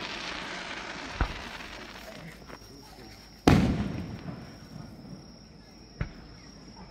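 Aerial firework shells bursting. The noisy tail of a burst just before fades out over the first two seconds, a sharp bang comes about a second in, and the loudest bang comes about three and a half seconds in, its rumble dying away over a second or two. A smaller bang follows near the end.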